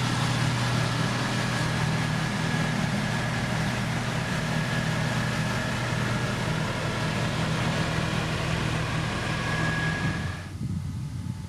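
Diesel engine of a heavy road-building machine running steadily, with a thin high whine above it. The sound cuts away suddenly near the end to something much quieter.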